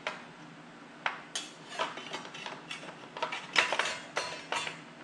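A run of light metallic clinks and clicks, about a dozen, from metal tool parts of a circular saw being handled. The loudest clink comes a little past the middle.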